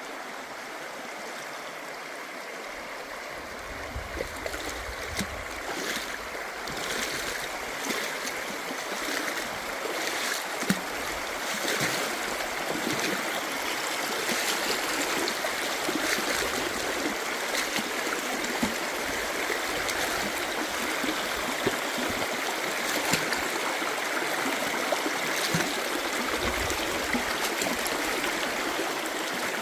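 River water running over rocks: a steady rushing stream sound that grows gradually louder, with a few brief low rumbles and occasional short ticks.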